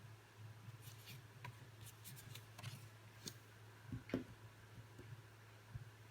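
Near silence: a steady low hum with a few faint clicks and a soft knock about four seconds in.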